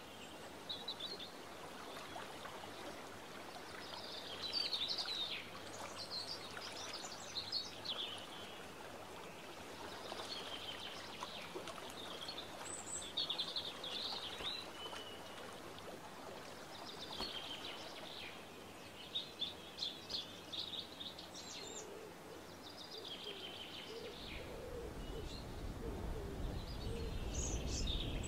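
A songbird singing short, chirpy phrases every second or two over a steady background hiss. A low rumble joins near the end.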